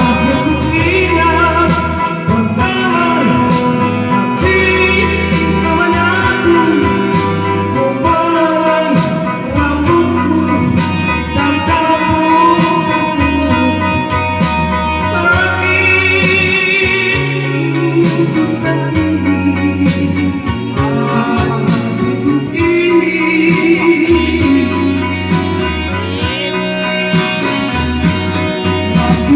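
A Malay-language song: a singer over guitar and bass accompaniment, playing continuously.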